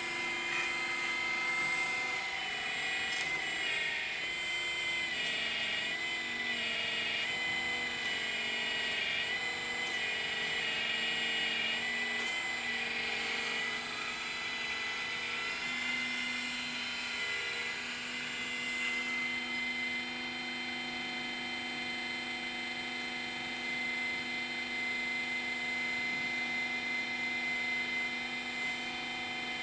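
Small electric motors of radio-controlled model construction machines whining. Their pitch shifts and steps for about the first twenty seconds, then holds steady.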